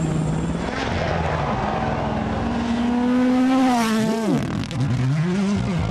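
Rally car engine running hard on an onboard run, its pitch holding high, dropping sharply about four seconds in and then climbing again.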